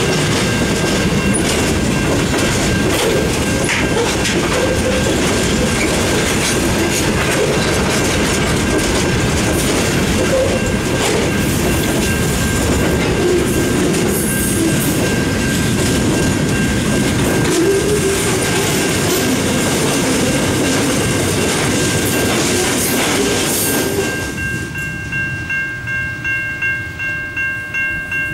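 Freight train wagons rolling past a level crossing, a loud continuous rumble with clickety-clack over the rail joints. A level crossing bell rings the whole time and stands out clearly about 24 seconds in, when the train noise suddenly drops away; it pulses about twice a second.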